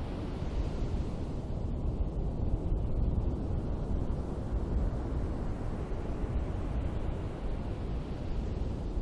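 Ocean surf washing on a beach: a steady rushing noise that swells about three seconds in, with low wind rumble on the microphone.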